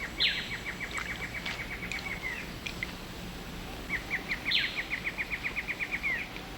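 Rain-forest ambience: a bird's rapid trill of evenly spaced notes, about eight a second, given twice, each lasting about two seconds.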